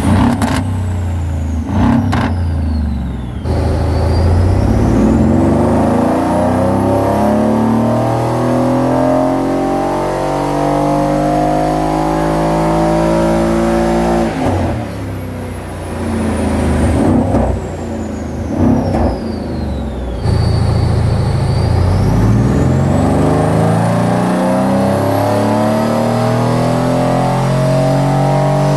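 Straight-piped, decatted Mercedes-AMG C63 V8 under hard acceleration, its pitch climbing steadily for about ten seconds. It then falls back with a few sharp cracks and climbs again in a second long pull.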